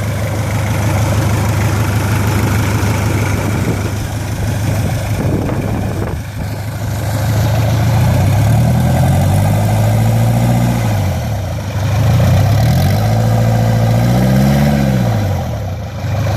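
Hyundai engine running: it idles steadily, then is revved twice in the second half, each time rising, holding for a second or two and dropping back to idle.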